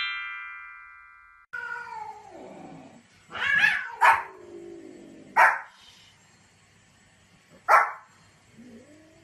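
A ringing chime fades out. Then a cat meows in long sliding calls while a Pomeranian gives a few short, sharp barks a second or two apart.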